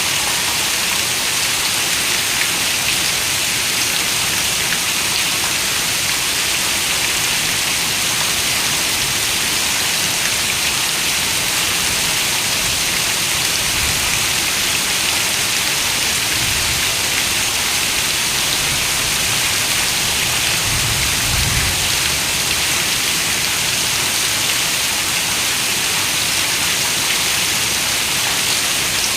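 Steady rain, an even hiss of falling drops, with a few soft low rumbles around the middle.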